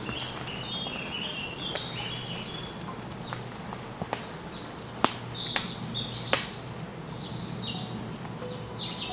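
Small birds chirping and singing in many short, high calls, with a few sharp clicks cutting in, the loudest about five and six seconds in.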